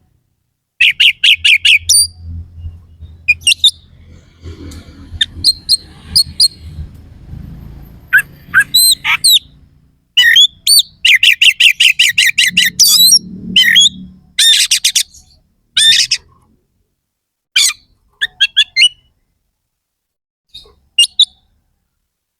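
Oriental magpie-robin (kacer) singing loudly in bursts: fast runs of repeated harsh notes and sharp rising and falling whistles, with short pauses between phrases. A low rumble sits under the song in the first half and again about two-thirds of the way in.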